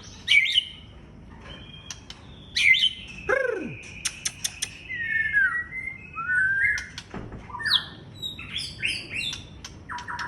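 White-rumped shama in full, energetic song ('on fire'): a varied run of whistled glides, sharp chirps, trills and a quick series of clicks.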